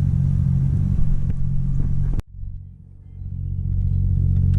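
A vehicle engine idling, a steady low drone. About two seconds in it cuts off abruptly, then a quieter engine drone fades back up.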